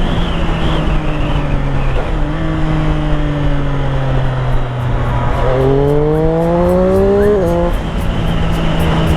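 Triumph Street Triple 765's three-cylinder engine running on the move, with wind rush on the helmet mic. The revs sag slowly, then a little past halfway it accelerates with a rising pitch before the revs drop sharply and settle steady.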